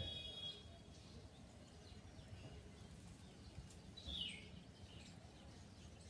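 Faint bird calls over low background noise: a brief high note at the very start and one quick falling chirp about four seconds in.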